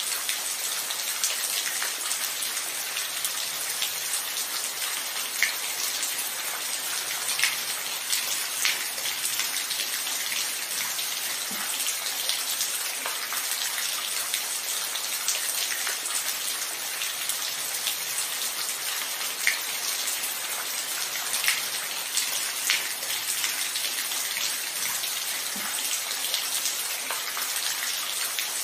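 Steady rainfall: an even hiss of rain with distinct drops ticking here and there on a hard surface.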